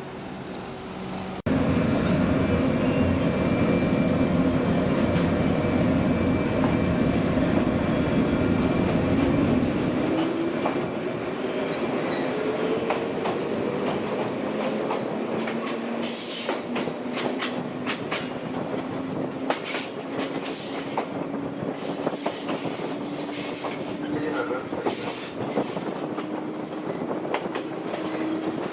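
Old JNR-type electric train running on the rails: a loud rumble that starts suddenly, then a slowly rising motor whine, then many sharp rail-joint clicks in the second half.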